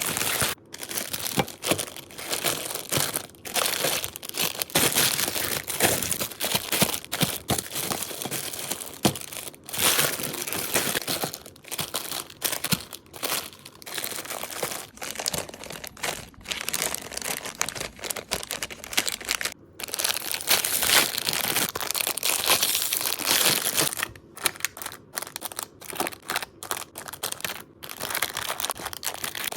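Food packaging crinkling and rustling as it is handled, with brief pauses and sharp clicks in between.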